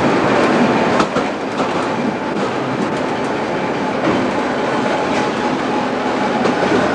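Tram running along the track, heard from on board: steady wheel-and-rail noise with occasional clicks.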